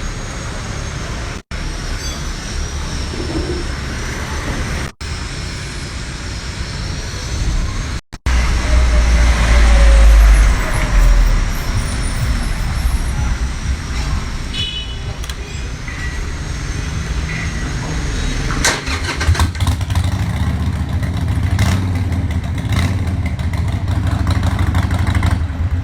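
Big motorcycle engines running, heard in several short clips cut together, with a strong low rumble that is loudest about eight to eleven seconds in.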